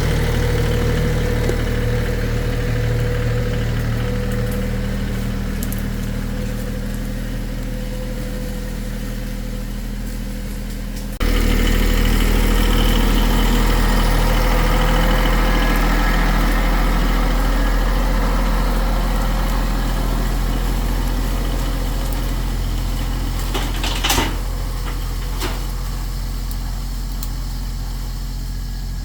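Tractor engine running steadily at an even, low pitch. It gets abruptly louder about 11 seconds in, and a single sharp knock comes near 24 seconds.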